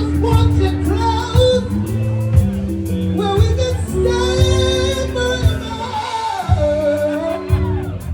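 Live band playing a slow soul song: sustained bass and keyboard notes with steady drum hits, while a singer holds long, sliding wordless notes over the top.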